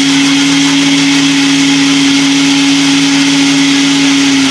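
Small electric kitchen mixer running steadily at one speed with a loud motor whine, beating eggs and sugar for a cake batter.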